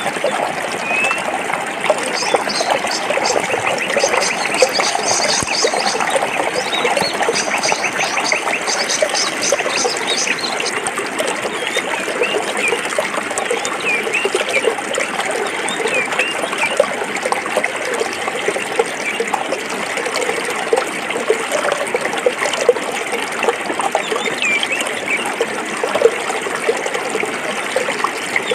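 A forest stream running steadily over rocks. From about two seconds in until about eleven seconds a rapid high trill of repeated notes sounds over it, and short chirps follow here and there.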